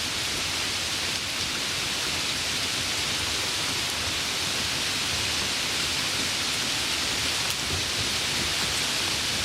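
Steady rain falling, an even hiss of many drops with a few faint individual ticks.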